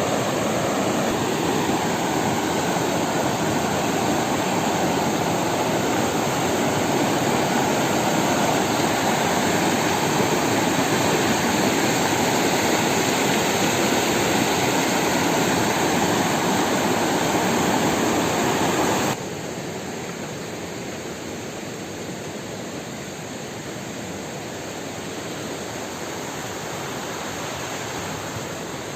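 A river's water rushing as a steady, loud noise. About 19 s in it drops suddenly to a quieter, duller rush.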